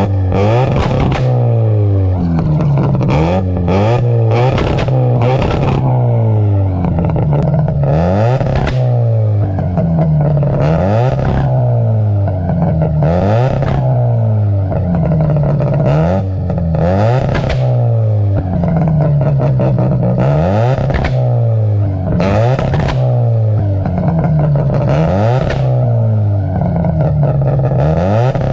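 Ported Mazda 12A rotary engine, breathing through a Holley 650 carburettor and open long-tube headers with no muffler, revved again and again in sharp blips. Every two to three seconds the note climbs and falls back, with a harsh rasp at each peak.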